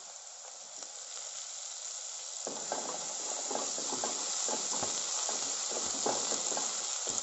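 Green chili-garlic-ginger paste and fresh coriander sizzling in hot oil in a non-stick kadhai. From about two and a half seconds in, a silicone spatula scrapes and stirs it in quick, repeated strokes.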